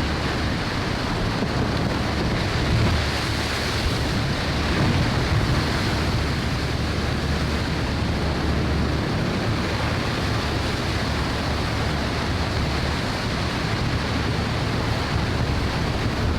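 Massive glacier collapse: a steady, loud rushing noise with a low rumble underneath, with no single crash standing out.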